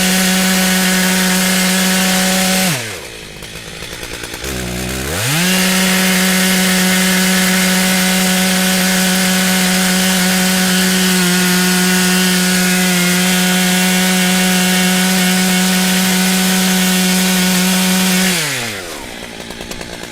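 Stihl MS880 two-stroke chainsaw cutting through a log at full throttle. It drops to idle about three seconds in, revs back up into the cut about two seconds later and runs steadily, then falls back to idle near the end.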